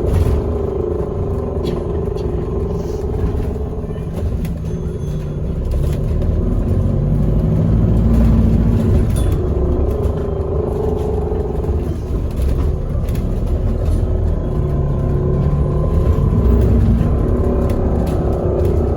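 A bus engine and drivetrain running, heard from inside the bus: a continuous rumble with a steady whine, and a pitched note that climbs twice, about seven and fourteen seconds in, as the bus pulls away or accelerates.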